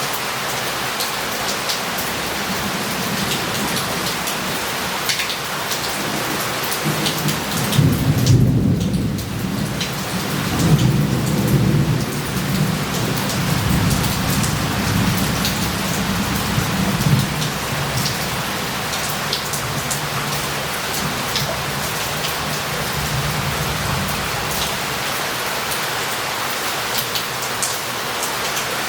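Heavy rain falling steadily on a city street, with scattered drops ticking through it. A rolling rumble of thunder builds about seven seconds in, is loudest twice in the next few seconds, and dies away by about eighteen seconds.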